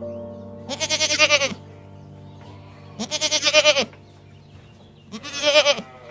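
A goat bleating three times, each call lasting about a second with a fast quaver, over steady background music.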